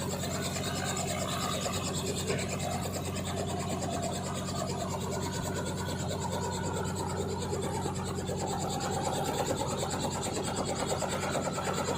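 Helicopter in flight: engine and rotors droning steadily with a fast, even buzzing flutter.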